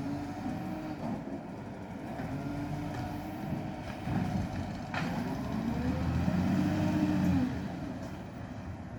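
Garbage truck engine running, its pitch rising and falling as it revs up and down, loudest a little past the middle and then fading away. A sharp click about five seconds in.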